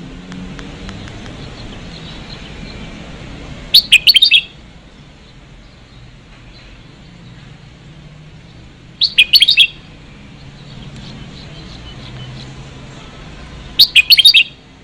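Red-whiskered bulbuls calling: three loud, short phrases of quick chirping notes, about five seconds apart.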